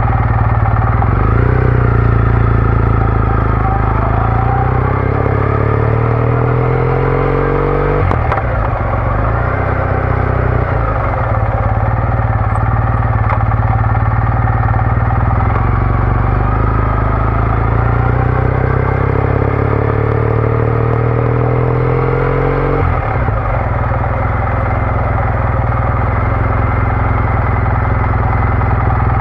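Triumph Bonneville T214's 865 cc parallel-twin engine through a TOGA aftermarket exhaust, under way. The revs climb steadily and fall sharply twice, about eight seconds in and again about three quarters of the way through, as it accelerates and shifts up a gear.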